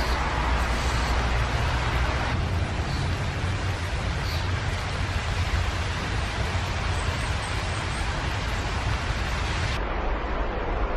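Steady rushing noise with a strong low rumble, which changes abruptly about two seconds in and again near the end. A few faint, short, high bird chirps sound through it.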